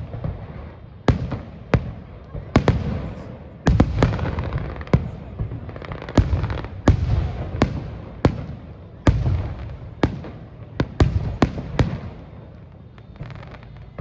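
Fireworks exploding overhead: a rapid series of sharp bangs, some booming, over continuous crackling, thinning out a little after about twelve seconds in.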